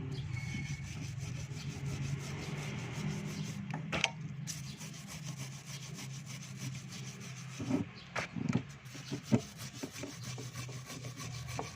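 Rough, repeated scraping and rubbing of hand work on a part, like a file or abrasive, with a few sharper knocks about four seconds in and again around eight to eleven seconds, over a steady low hum.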